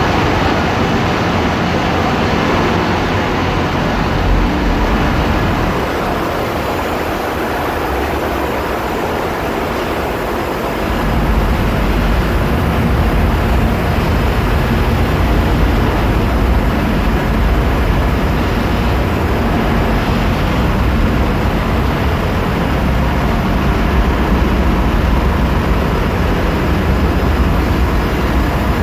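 Loud, steady machinery noise of a bulk carrier's engine room, with diesel engines and auxiliary machinery running together. A deeper low rumble grows stronger about eleven seconds in.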